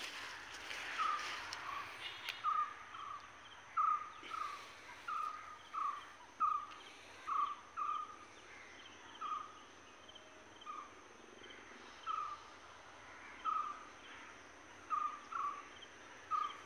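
A bird giving short call notes over and over, about one or two a second at an uneven pace, with fainter high chirps behind it.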